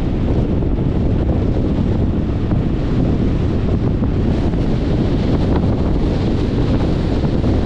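Steady wind rush and road noise from a moving 2021 Jeep Compass, with heavy wind buffeting on the microphone and no breaks or changes.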